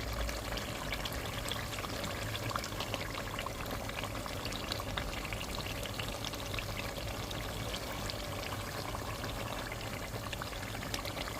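Pepper and tomato stew base frying in palm oil, a steady sizzle with many small scattered crackles.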